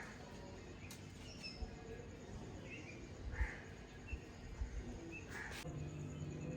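Outdoor background noise with scattered short bird chirps and a few soft knocks; a steady low hum begins near the end.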